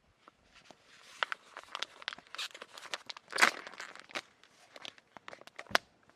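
Irregular rustling and crinkling with many sharp clicks, loudest about three and a half seconds in, and a sharp knock near the end.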